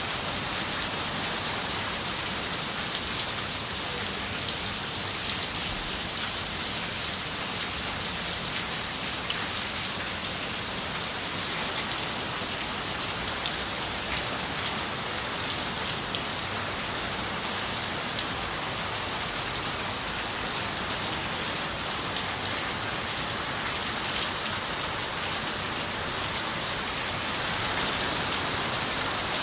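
Steady rain falling and pattering on a window, a dense even hiss with scattered sharper drop ticks, swelling slightly near the end.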